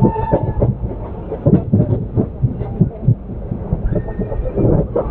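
Pinakini Superfast Express passenger coach running along the track, heard from on board: a steady low rumble with irregular sharp knocks and clicks as the wheels pass over rail joints.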